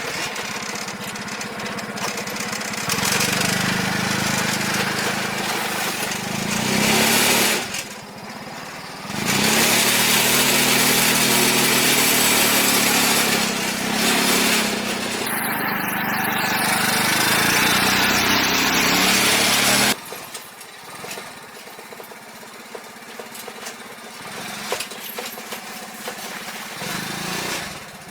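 Small petrol engine running hard, its pitch rising and falling as it is revved; it eases off briefly about eight seconds in and drops to a much quieter run about twenty seconds in.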